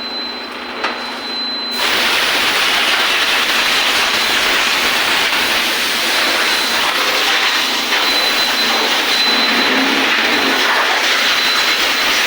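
TVS Jupiter 125 scooter engine running on its newly fitted replacement cylinder, the original having seized. It gets louder about two seconds in and then runs steadily.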